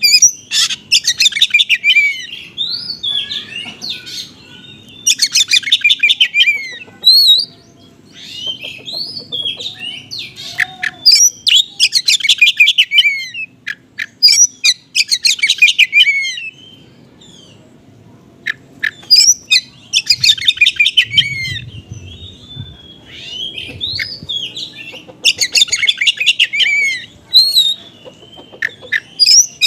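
Oriental magpie-robin singing in the fast, chattering 'konslet' style, with mimicked small-bird phrases. Dense bursts of rapid trilled notes come every few seconds, with shorter whistled and falling notes between them.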